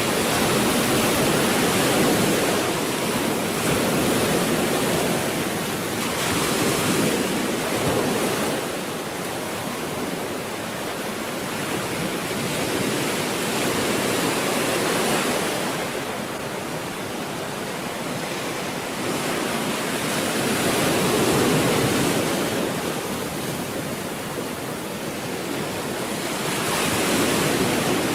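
Stormy sea waves breaking on the shore: a continuous rush of surf that swells and eases every few seconds, with no single sharp crash.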